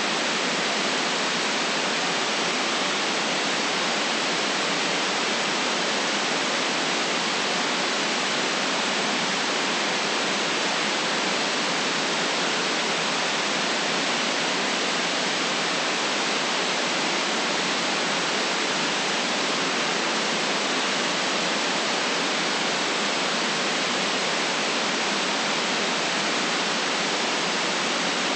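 Generated white noise: a steady, even hiss with the deep bass and the highest treble cut off, unchanging throughout.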